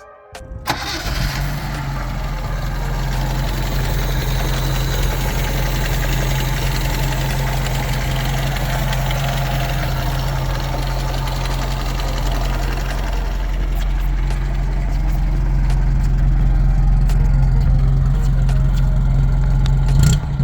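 1965 Alfa Romeo Giulia 1600 Spider's four-cylinder engine starting about a second in, then idling steadily.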